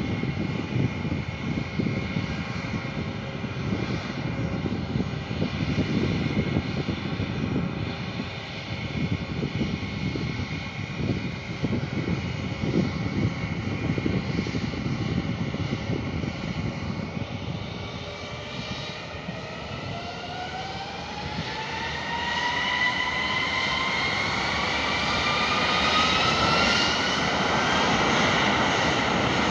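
Airliner's engines running steadily, then spooling up for take-off: a rising whine climbs in pitch from a little past halfway and the engine noise grows louder toward the end.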